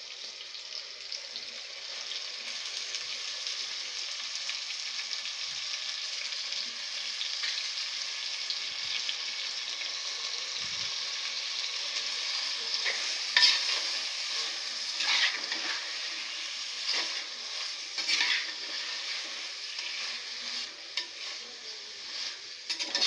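Raw mutton sizzling as it fries in sesame oil with onions and tomatoes in a clay pot, with a steady hiss. A metal spatula stirs and scrapes against the clay, the scrapes louder and more frequent in the second half.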